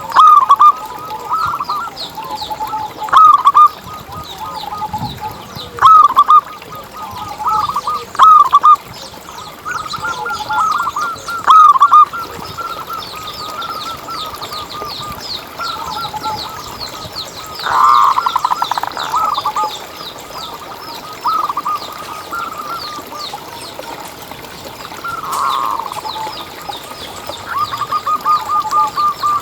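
Zebra dove (perkutut) cooing in repeated short phrases of quick, soft notes, loudest in several bursts during the first twelve seconds. A fast, even run of notes comes near the end. Fainter, higher-pitched chirping goes on behind.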